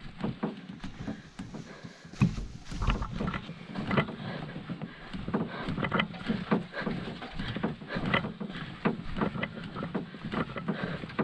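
Canoe paddling: paddle strokes dipping and splashing in the water, heard as irregular short splashes and knocks.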